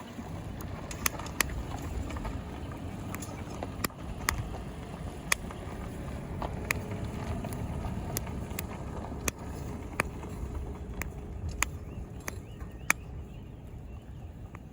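Small twig fire burning in a Daiso pocket stove: a steady low rush with sharp, irregular crackles and pops about once a second.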